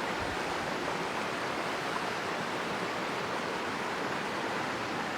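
A river flowing over rocks, a steady rushing of water.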